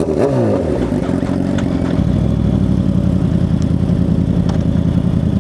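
Motorcycle engine with its revs falling off in the first second after a blip, then running steadily.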